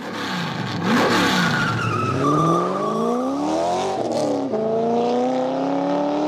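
Car engine sound effect, revving with its pitch climbing steadily. About four and a half seconds in the pitch drops suddenly and climbs again, like a gear change.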